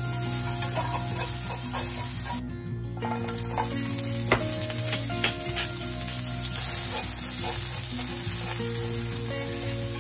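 Julienned carrot and red chili, then garlic chives, sizzling as they are stir-fried in a nonstick frying pan, with chopsticks clicking against the pan now and then. The sizzle breaks off briefly about two and a half seconds in.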